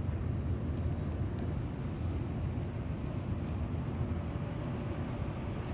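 Steady low rumble of an Airbus A319 airliner's jet engines during takeoff and climb-out.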